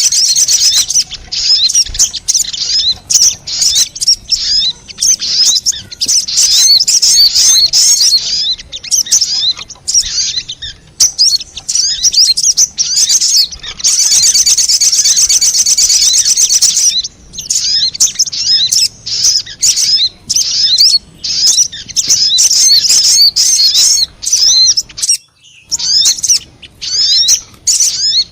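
Sogon (crimson sunbird) lure call: rapid, high, squeaky chirping and twittering, broken by stretches of fast continuous trilling, played to attract wild sogon.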